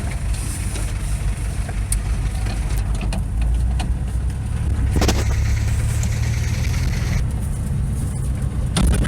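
GAZelle van driving slowly on a rough dirt track: the engine gives a steady low drone that swells in the middle, with a few sharp knocks and rattles from the body over the bumps.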